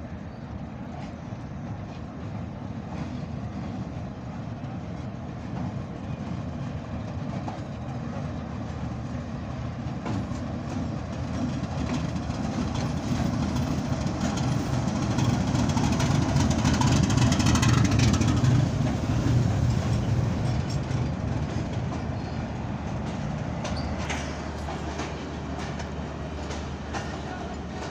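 Passenger train rolling into the station. The rumble and clatter of its wheels grow to a peak about halfway through, then ease off as the rest of the coaches pass.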